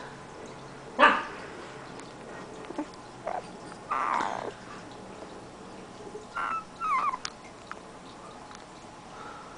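Siberian husky puppy giving a few short yips and whines, the loudest a sharp yip about a second in.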